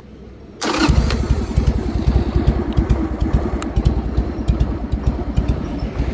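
Harley-Davidson XLH883 Sportster's air-cooled V-twin starting up less than a second in, then running with an uneven, pulsing beat: the lilting 'three-beat' idle of a Harley V-twin.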